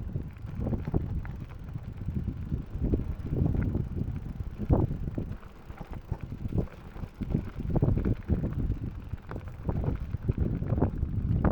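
Mountain bike rolling down a rough trail, the bike knocking and rattling over bumps, with wind rumbling on the microphone.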